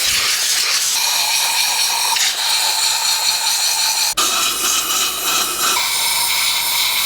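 Compressed-air blow gun hissing loudly and steadily, with a faint whistle, as it blows water and debris out of a freshly pressure-washed Honda CB750 four-cylinder engine. The air cuts out briefly about four seconds in.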